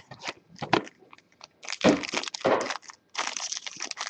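Packaging of a sealed trading-card box crinkling and crackling as it is opened by hand: a few light clicks, then two rustling stretches of about a second each.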